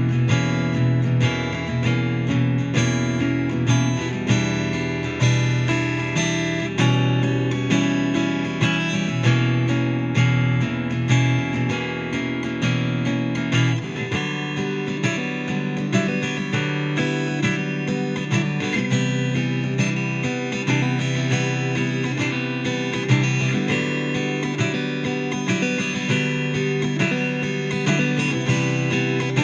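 Dean Exhibition thin-body acoustic-electric guitar playing an instrumental piece. About halfway through, the deepest bass notes drop out.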